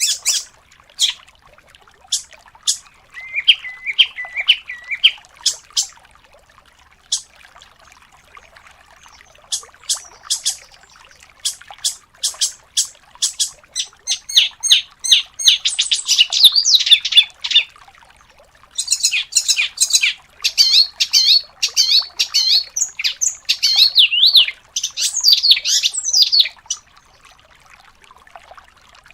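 Songbird singing fast, varied phrases of sharp high notes and rapid trills, in bursts separated by short pauses, busiest through the second half and falling quiet near the end.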